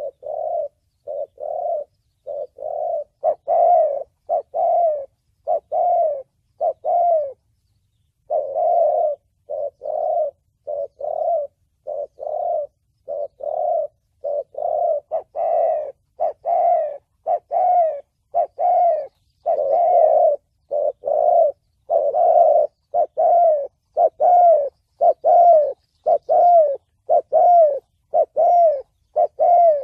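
Spotted dove cooing in the 'thổ bầu' voice: a steady run of short, low coos, about one and a half a second, with one break of about a second a quarter of the way in.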